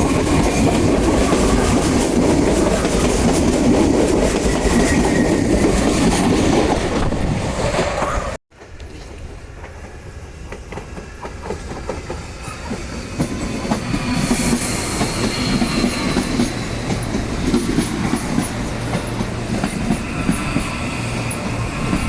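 Electric commuter train running on the track, with a loud steady rumble and wheels clattering over the rails. About eight seconds in, the sound cuts off abruptly. A quieter train sound then builds up again, with a faint high wheel squeal partway through.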